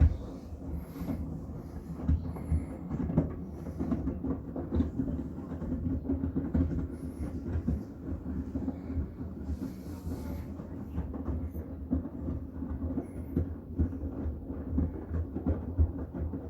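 Miele WCR 870 front-loading washing machine running a cotton wash of bath towels: a steady low hum of the drum turning, with continual irregular light knocks as the load tumbles.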